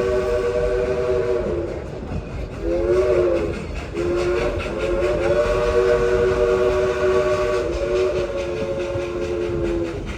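Steam whistle of 2-8-2 locomotive No. 192 sounding a three-note chord: a long blast ending about two seconds in, a short blast, then a long blast of about six seconds. A regular rhythmic beat from the engine runs underneath.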